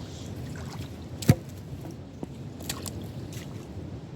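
A single sharp knock about a second in, followed by a few lighter clicks, over a steady low outdoor rumble.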